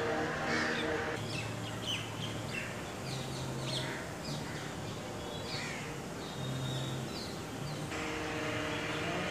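Birds chirping with many short, falling calls, over a steady low background hum.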